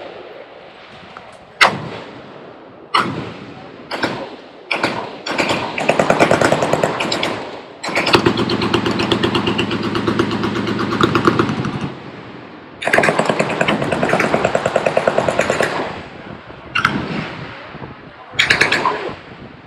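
Several machine guns firing on a range line: a few scattered single shots, then long stretches of overlapping rapid automatic fire lasting a few seconds each, then two short bursts near the end.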